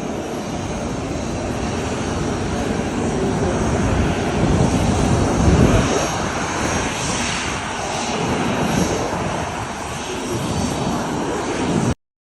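Private business jet's engines running, a steady roar with a faint high whine that swells in the middle. It stops abruptly near the end.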